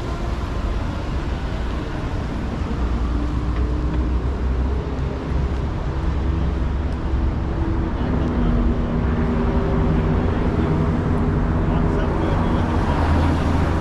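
City street traffic: a steady low engine rumble that grows louder in the second half as a vehicle's engine hum comes nearer.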